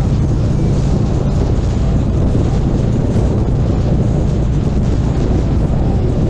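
Harley-Davidson Street Glide Special's V-twin engine running at road speed under heavy wind noise on the microphone, as a steady loud rumble.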